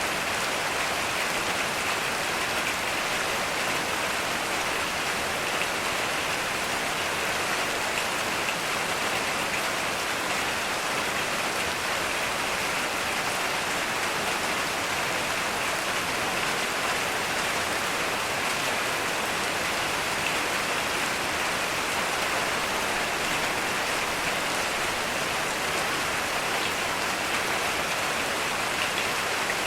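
Heavy rain falling steadily, an even hiss with no let-up and no thunder.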